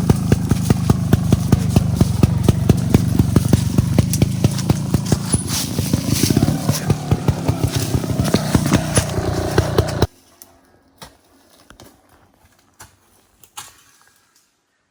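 Trials dirt bike engine running at low revs with an even beat of firing pulses, rising slightly around six seconds in, then cutting off suddenly about ten seconds in. A few faint clicks and crackles follow.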